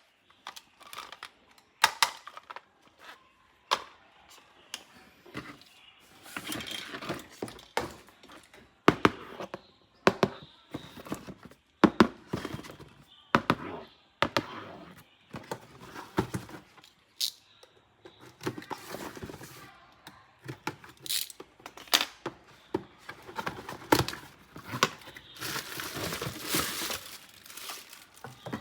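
Plastic packaging crinkling and tearing during a toy unboxing, with many sharp clicks and knocks, the rustling growing denser near the end.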